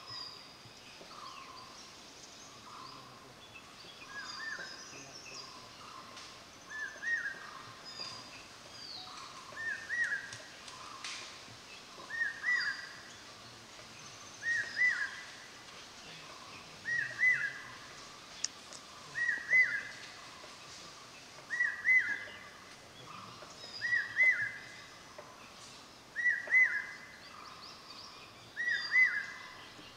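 A bird repeating the same short whistled phrase about every two and a half seconds, growing louder, with other birds calling softly in the forest around it.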